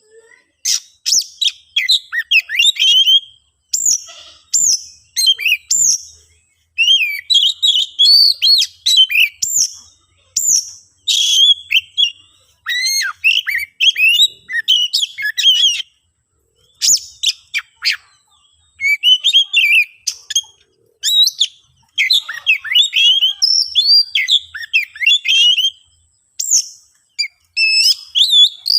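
Oriental magpie-robin (kacer) singing in agitated, combative song: fast phrases of varied sweeping whistles, chirps and trills, broken by short pauses.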